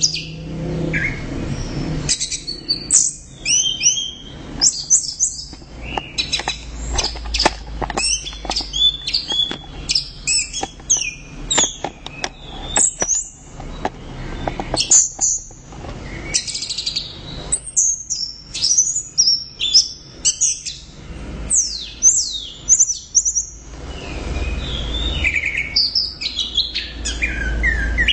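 Orange-headed thrush (anis merah) singing a loud, fast, varied song of quick high whistled glides mixed with sharp clicky notes, almost without pause, with a brief lull about three-quarters of the way through before the song picks up again.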